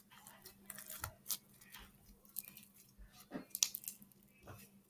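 Slime being handled by hand: irregular wet, sticky crackles and clicks, a few sharper pops about three and a half seconds in.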